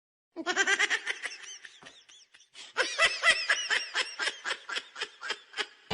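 A person laughing in quick repeated bursts, in two runs with a short break about two seconds in.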